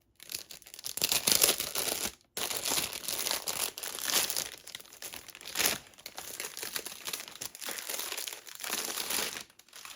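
Plastic packaging crinkling and rustling as hands unwrap it and the paper sheet wrapped around it, with one short break about two seconds in.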